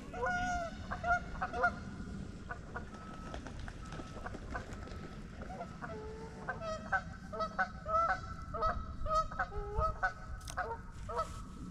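Geese honking, a series of short calls: a few near the start, then a busier run of overlapping honks through the second half.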